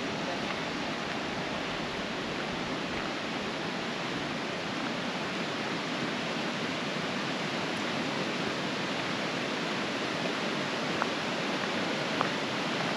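Creek in spate with snowmelt: a steady rush of fast-flowing water, with two faint ticks late on.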